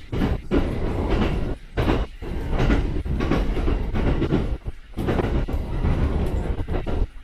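Shinano Railway SR1 series electric train running at speed: loud, steady wheel-on-rail rumble with clacking over rail joints, dipping briefly a few times.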